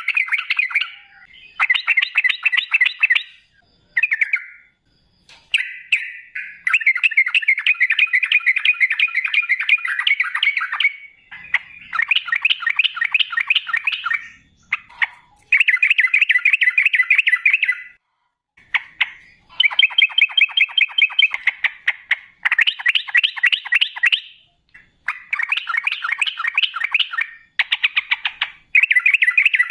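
Yellow-vented bulbul (trucukan) singing vigorously in rapid, rolling phrases. Bursts of quickly repeated notes last one to three seconds each, broken by short pauses, over and over.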